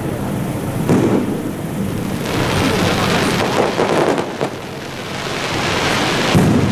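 Aerial fireworks shells bursting with deep booms, about a second in and again near the end, with a stretch of crackling in between.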